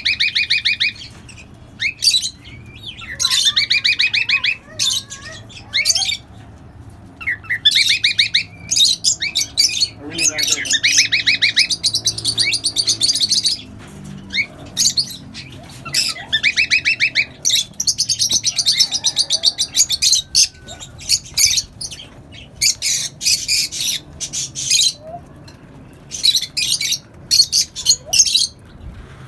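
A mixed colony of small parrots (cockatiels, lovebirds and budgerigars) chattering and squawking: harsh, rapidly repeated calls in runs of a second or two, with short pauses between.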